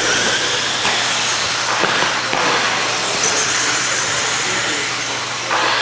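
A field of modified-class electric RC stadium trucks racing, a steady whir of the motors with a faint high whine about three seconds in.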